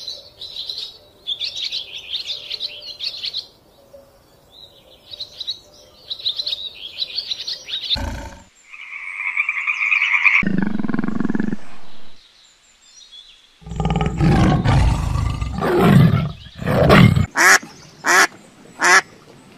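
A string of different animal calls: two bouts of high chirping bird calls, then a steady higher call and a low call, then a run of loud, harsh calls in quick succession near the end.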